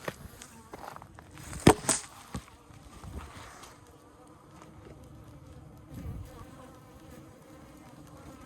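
Honeybees buzzing steadily from a colony nested in a birdhouse, with two sharp knocks in quick succession about two seconds in.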